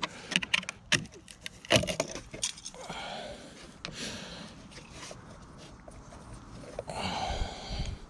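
Old metal boat fittings and gauge parts knocking and clattering as they are handled and tossed aside, with several sharp knocks in the first two seconds, then quieter rattling and scraping.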